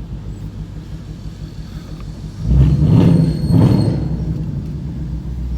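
Ford Mustang 5.0-litre V8 with a loud exhaust running at low speed with a deep rumble. It surges loudly twice about two and a half to four seconds in, then settles back to the rumble.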